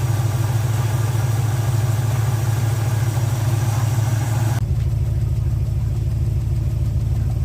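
Chevrolet 350 small-block V8 idling steadily after a tune-up, with a low, even rumble. About four and a half seconds in, the higher part of the sound drops away abruptly while the idle continues.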